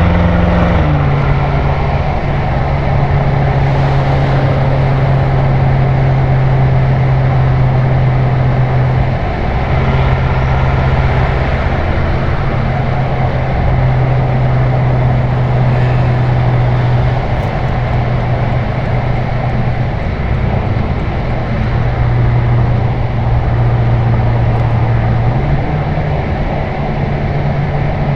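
BMW M6 Gran Coupe's twin-turbo V8 through an Akrapovič Evolution Line exhaust, droning steadily at motorway cruise over constant tyre and wind noise. The engine note drops a little about a second in, and rises again a few seconds before the end.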